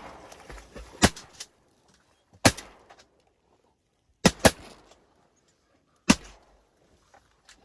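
Shotgun shots: five loud blasts a second or two apart, two of them in quick succession just past halfway, each trailing off in a short echo.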